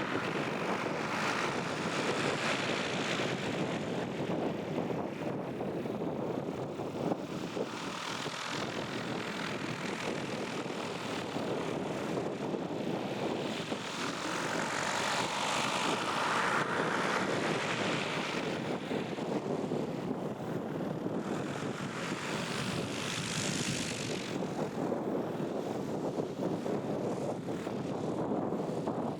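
Piper Cherokee Warrior II's four-cylinder Lycoming engine and propeller running steadily while the aircraft taxis toward the runway hold, heard from inside the cabin. The sound swells a little about halfway through and again later.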